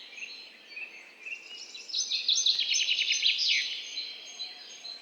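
Songbirds singing in a forest, with scattered high chirps throughout. One bird's rapid run of notes is loudest, from about two seconds in, and slides down in pitch as it ends.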